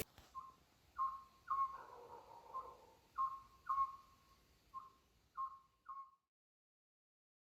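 A bird calling in a series of about nine short whistled notes, all on the same pitch and unevenly spaced. The calls cut off abruptly near the end.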